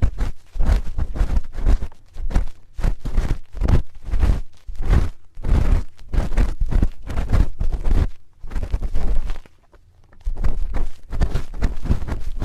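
Spoon scraping and rubbing against an ear microphone in quick, crackly strokes, several a second, with a short pause about three-quarters of the way through.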